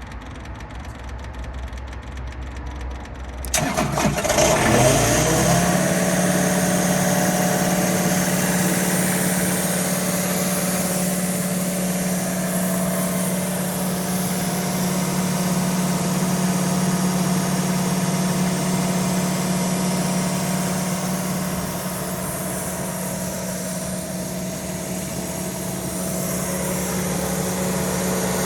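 Kubota V1505 T four-cylinder turbo-diesel engine of a Kaeser M 50 PE mobile compressor being cranked. It catches about three and a half seconds in, surges, and settles within a couple of seconds into a steady idle.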